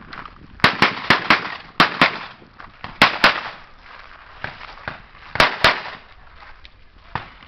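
Gunshots fired in quick pairs: about ten sharp shots in five double taps, the pairs a fraction of a second apart with pauses of one to two seconds between them, and a quieter sharp report near the end.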